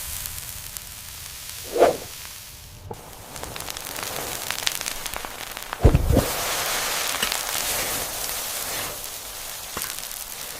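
Hissing, crackling noise with many small clicks, with a dull thud about two seconds in and a louder double thud about six seconds in.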